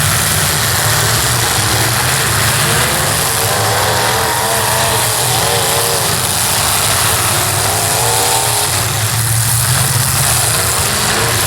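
Demolition derby cars' engines running together, with one engine revving up and down repeatedly, a few seconds in and again later on, as a car stuck in a rut tries to pull free.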